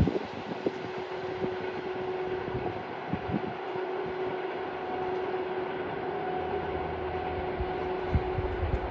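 Passenger train's coaches rolling away on the rails: a steady rumble of wheels on track with a constant hum held throughout. A few short low bumps land on the microphone near the start, about 3 s in and near the end.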